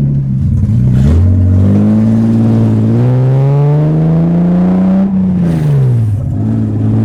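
BMW E30's swapped S52 inline-six running loud on open headers: the revs climb steadily for about four seconds, fall away sharply around five seconds in, then hold steady.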